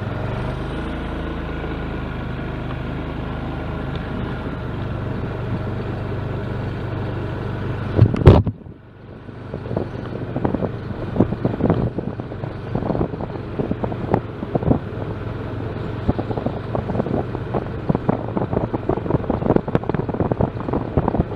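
Vehicle engine and road noise as it drives, a steady hum. About eight seconds in there is a loud knock, and the sound changes abruptly to wind buffeting the microphone in irregular gusts with crackling pops.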